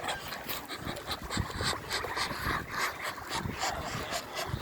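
Domestic animals calling: a busy run of short cries and clicks.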